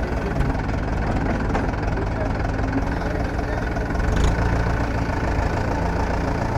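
Diesel engine of a Mahindra Yuvo 575 tractor idling steadily, slightly louder about four seconds in.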